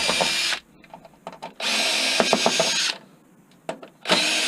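Power drill run in short bursts of about a second and a half, backing screws out of a desktop computer case, with light clicks and rattles of small parts between bursts.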